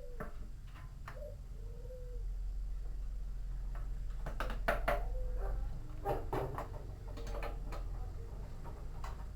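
Knocks and clatter of washing-machine parts being handled and fitted, several of them from about four seconds in, over a low steady rumble. A few short squeaks in the first two seconds.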